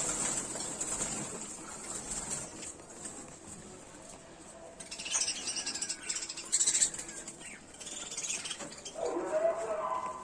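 Caged budgerigars chirping and fluttering, with scattered clicks and rattles as the water drinkers are taken out of the cage; the loudest burst of clatter comes a little after the middle.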